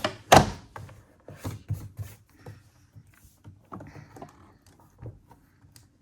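Handling of an open laptop: one sharp knock just after the start, then a run of lighter clicks and knocks with a short rustle partway through.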